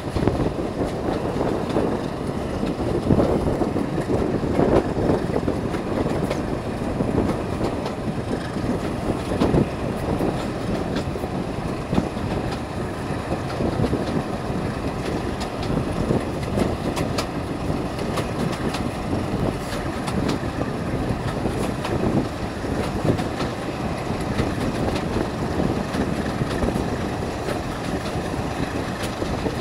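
Heritage passenger train hauled by a Class 14 diesel-hydraulic locomotive running along the line, heard from an open carriage window: a steady rumble of wheels on the track with a few faint clicks.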